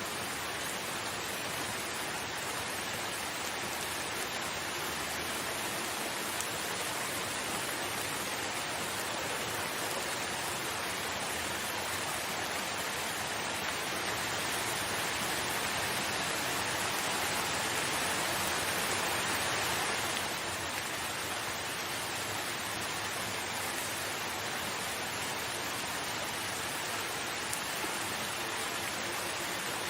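Steady, dense rain falling. It swells louder for several seconds, then drops back abruptly about two-thirds of the way through.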